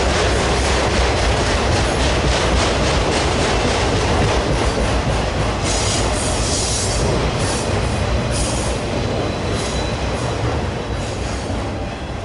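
Freight train cars rolling past: a steady rumble and clatter of wheels on the rails, with several brief high wheel squeals in the middle, easing off near the end.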